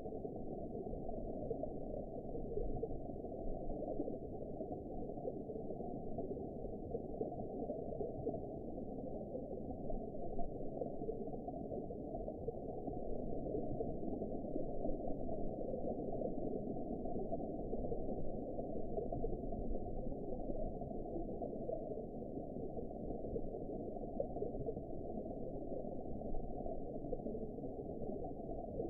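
Steady, muffled underwater ambience: a dense, even wash of low water noise with nothing above about 1 kHz.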